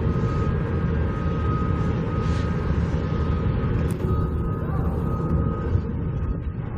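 Wind buffeting the microphone with a low rumble, over a construction vehicle's reversing alarm beeping about once a second.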